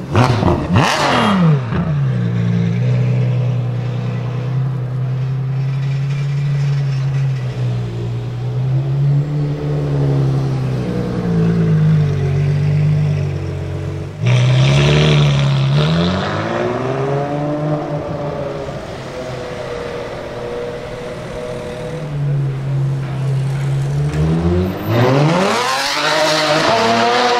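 Ferrari F12 Berlinetta's V12 through an Armytrix titanium exhaust. It revs briefly at the start, then runs steadily at low revs, its pitch wandering. About halfway it suddenly gets louder with a burst of revs, settles again, and revs hard with a rising pitch near the end.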